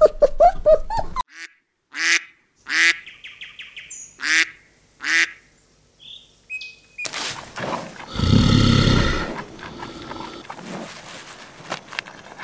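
A mallard duck quacking four times, short raspy calls spaced about a second apart. Before it, for about a second, puppies squeal in rapid high whimpers. From about seven seconds on comes a noisy stretch, loudest for about a second near eight seconds.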